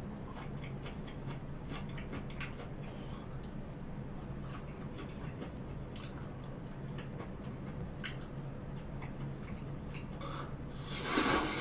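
A person chewing a mouthful of chicken gizzards close to the microphone, with faint scattered wet clicks from the mouth over a low steady hum. A louder, brief rush of noise comes near the end.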